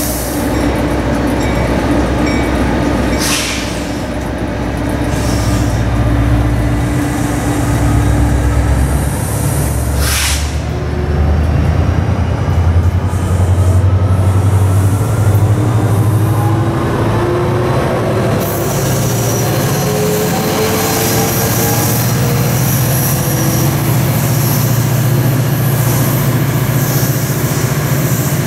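A train passing close by: a steady low rumble with wheel and rail noise, two sharp clicks about three and ten seconds in, and a faint whine that slowly rises in pitch in the second half.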